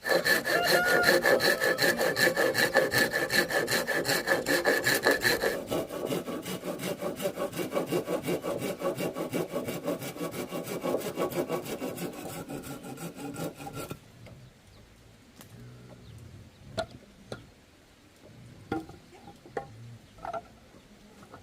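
Hand saw cutting through bamboo with fast, even back-and-forth strokes. The sawing stops about two-thirds of the way in, followed by a few scattered light knocks.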